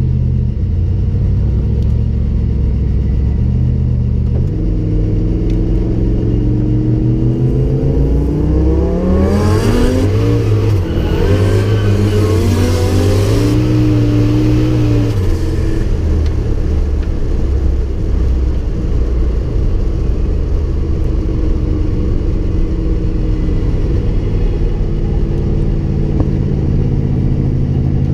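Turbocharged Toyota 1UZ quad-cam V8 in a KE20 Corolla, heard from inside the cabin: it runs steadily, then revs up hard from about five seconds in. From about nine to sixteen seconds a wash of rushing noise lies over the engine before the revs drop back to a steady lower run.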